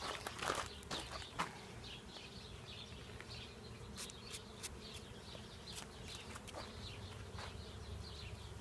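Honeybees buzzing around an opened hive, a steady hum. A few sharp clicks and knocks come in the first second and a half, with scattered clicks later.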